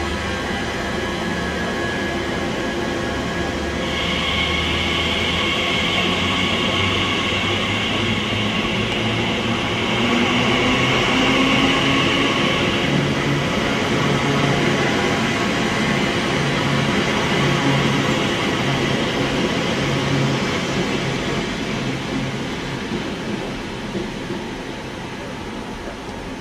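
TfL Rail Class 345 electric train running past the platform: steady rumble of wheels on the track, with a high-pitched squeal from about four seconds in to about thirteen seconds and a short rising whine about ten seconds in. The sound grows a little louder in the middle and fades toward the end.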